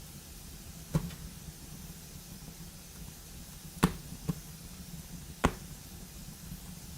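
Wood fire burning in a fireplace: a steady low rumble of the flames with four sharp crackling pops, the loudest about four seconds in.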